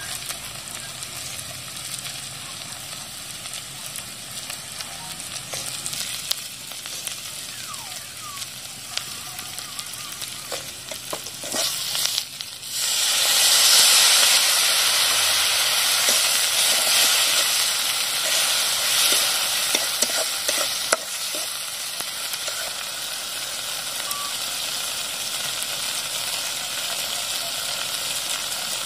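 Onion and spice masala frying in hot oil in a steel kadai, with scattered scrapes and taps of a metal ladle as it is stirred. About halfway through the sizzle jumps suddenly to a loud hiss as a splash of water goes into the hot pan, then slowly settles back to a steady sizzle.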